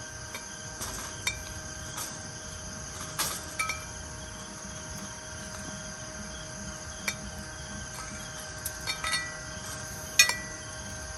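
Camp cookware and utensils clinking: a handful of light metallic taps, each ringing briefly, the loudest near the end, over a steady background with a faint insect-like drone.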